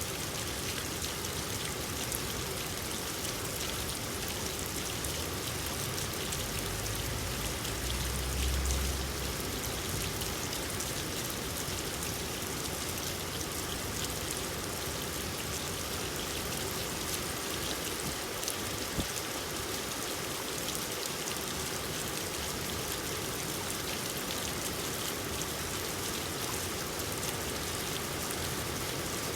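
Steady rain falling, a dense hiss with many individual drops pattering, and a brief low rumble about seven to nine seconds in.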